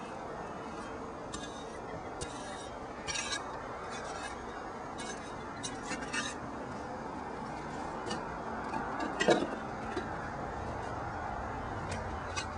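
Scattered sharp clicks and clacks of stones knocking together as rocks are gathered and piled, over a steady background hiss. The loudest knock comes about nine seconds in.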